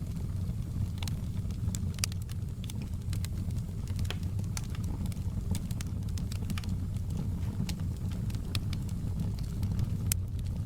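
Wood fire crackling in a fireplace: irregular sharp pops and snaps over a steady low rumble, with one louder snap near the end.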